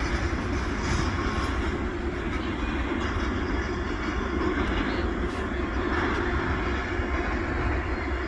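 Norfolk Southern freight train rolling past, a steady, even rumble of its cars on the rails.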